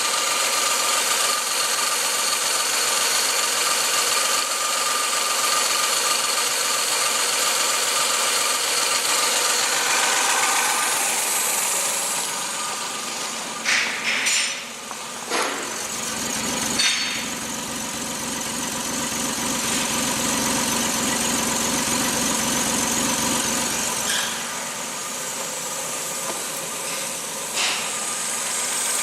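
Suzuki K6A three-cylinder engine running steadily at idle, dropping to a quieter, deeper note for several seconds around the middle. A few sharp clicks or knocks cut in over it, three of them close together a little past the middle and two more later.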